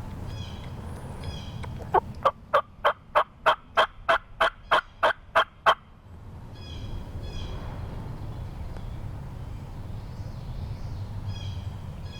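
A run of about twelve loud, evenly spaced turkey yelps, roughly three a second, lasting about four seconds, with the yelps of young gobblers (jakes) what the hunters were hearing out front. Faint songbird phrases come before and after.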